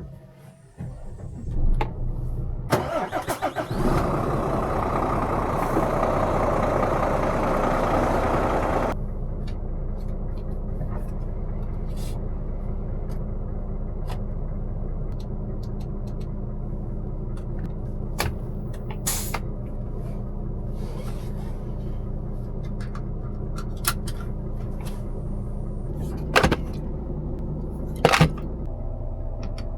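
Scania R500 truck's 13-litre six-cylinder diesel starting: brief cranking, then it catches and runs loud with a rushing noise for about five seconds before dropping suddenly to a steady idle. A few sharp clicks sound over the idle in the second half.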